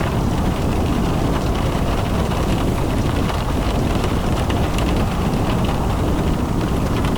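Steady low rumble and hiss of a car driving in the rain, with raindrops ticking.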